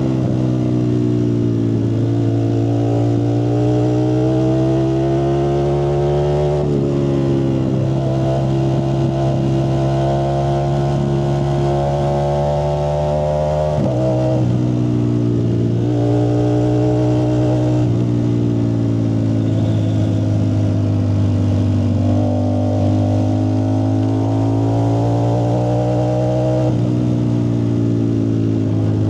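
Ducati Streetfighter V4S's 1103 cc V4 engine running through a Zard aftermarket exhaust, loud and steady. Its pitch climbs slowly and drops back abruptly about five times.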